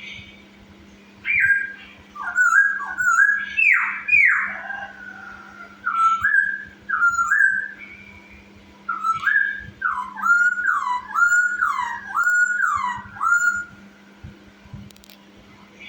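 Black-throated laughingthrush (poksay Hongkong) singing loud, slurred whistled phrases in three bursts, with thin high chips over the top. A steady low hum runs underneath.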